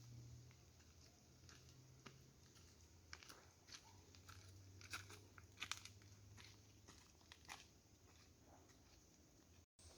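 Faint, irregular crunches and crackles, a handful of separate snaps spread through the stretch. There is a brief cut to dead silence just before the end.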